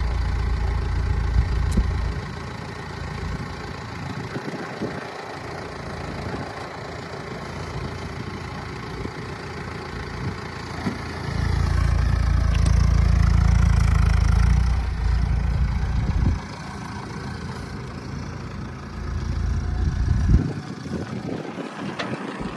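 An engine runs steadily throughout. Gusts of wind buffet the microphone as low rumbles at the start, for several seconds in the middle and again near the end.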